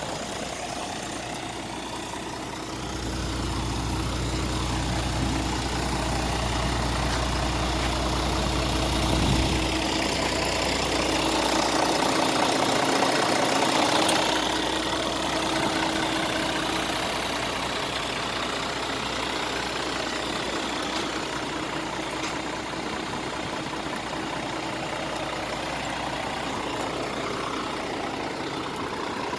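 Scania R450 truck's six-cylinder diesel engine idling, with a louder stretch about halfway through.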